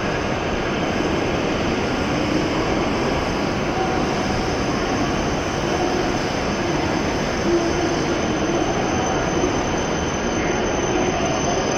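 E7 series Shinkansen train rolling slowly along the platform as it arrives to stop, a steady rumble of wheels on rail with faint whining tones over it.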